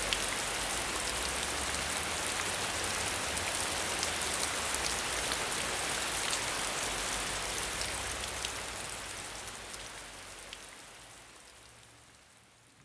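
Steady rain falling on a surface, an even hiss dotted with the ticks of individual drops, fading out over the last few seconds.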